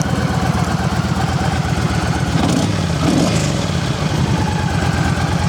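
2009 Yamaha V Star 1300's liquid-cooled 1300cc V-twin idling steadily through its factory exhaust.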